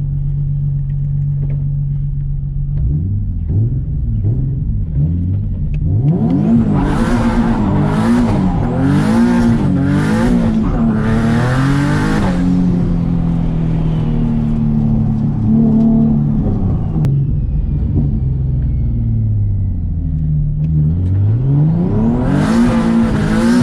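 Turbocharged Nissan 370Z V6 engine running steadily, then revving hard: its pitch rises and swings up and down several times, with bursts of high hiss, from about six to twelve seconds in. It settles to a steadier drone, then climbs again with hiss near the end.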